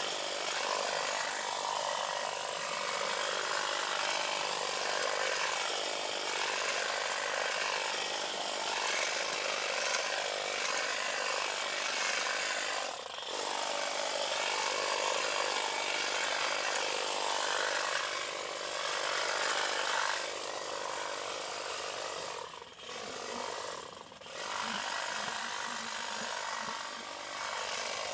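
A saw cutting through woody vine stems, steady and continuous with short breaks about halfway and again near the end.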